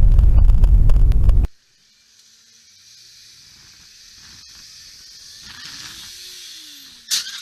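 Car dashcam audio: heavy road and wind rumble that cuts off abruptly about a second and a half in, then faint traffic hiss slowly swelling, broken by a single sharp knock near the end.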